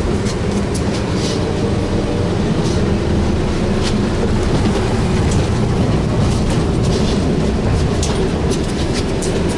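VMZ-5298.01 trolleybus under way, heard from inside the passenger cabin: a steady running rumble with a faint electric-motor hum, and scattered rattles and clicks from the body.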